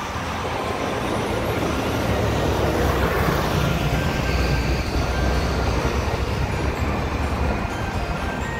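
Train running past on the line: a steady rumble of wheels on track, swelling to its loudest about three seconds in and holding.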